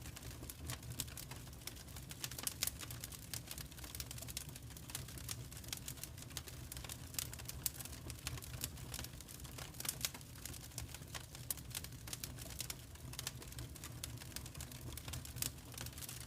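Wood fire crackling, with irregular quick pops and snaps, a few louder than the rest, over a low steady rumble of the burning fire.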